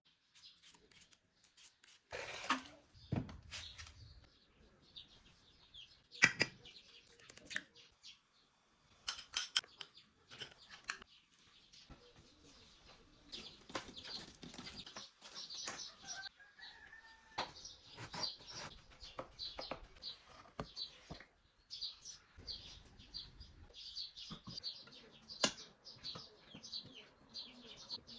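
Birds calling in short, high chirps, most steadily in the last six seconds, among scattered light clicks and knocks.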